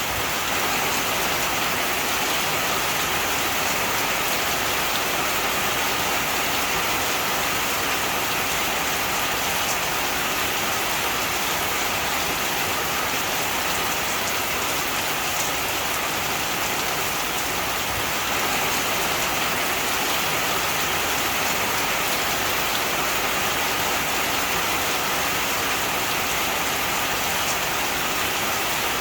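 Heavy rain falling steadily, an even hiss of drops on surfaces with no breaks or swells.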